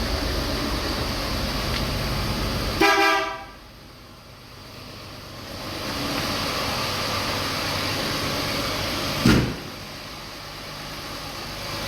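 A vehicle horn sounds one short toot about three seconds in, over a steady engine-like running noise. A single sharp knock comes just after nine seconds.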